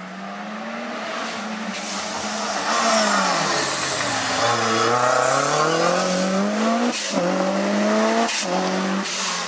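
Lancia Delta S4 Group B rally car's twin-charged four-cylinder engine, loud: the note drops as the car slows, then climbs hard under acceleration, with two quick upshifts near the end.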